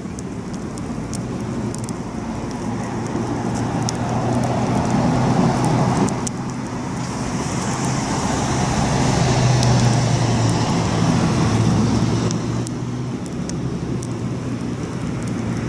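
Campfire crackling with scattered sharp pops, over a low engine-like hum that swells through the middle and eases near the end.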